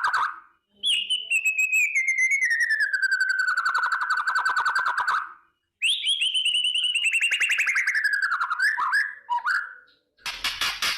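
White-rumped shama (murai batu) giving its rapid crackling 'kretekan' call: two long trains of fast clicking notes, each sliding down in pitch. A shorter, harsher rattle follows near the end.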